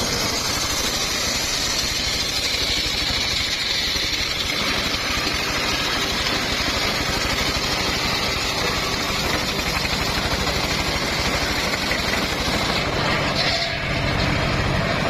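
Engine-driven circular sawmill running steadily, the motor's drone mixed with a higher hiss from the spinning blade, with a brief dip about two seconds before the end.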